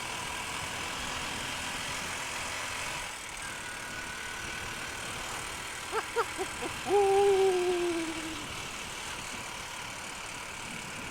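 Steady wind rush and engine and road noise on a moving Honda Unicorn motorcycle, with strong wind buffeting the rider. About six seconds in come a few short pitched chirps, then a louder pitched tone that slowly falls in pitch for about a second and a half.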